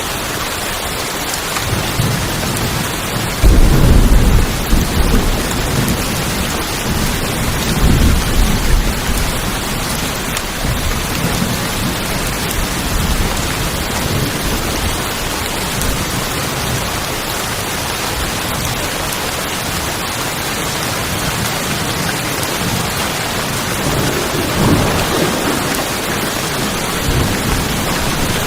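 Steady heavy rain drumming on tin roofs, with thunder rumbling through it: a sudden loud rumble about three and a half seconds in, another around eight seconds and a weaker one near the end.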